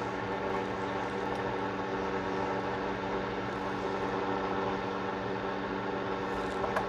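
A steady machine hum with several even, level tones, unchanged throughout, and a single light click near the end.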